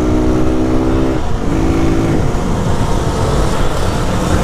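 Lifan KP motorcycle engine running at a steady speed with wind rushing over the microphone. The engine note breaks off about a second in, comes back briefly, then fades under the wind noise about two seconds in.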